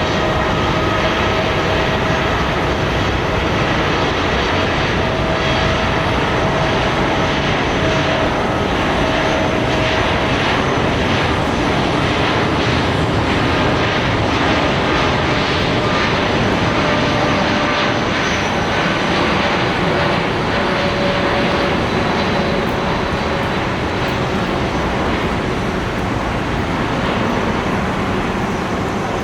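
Jet airliner's turbofan engines running loud and steady, a dense rush with a whine holding a few steady pitches, easing slightly near the end.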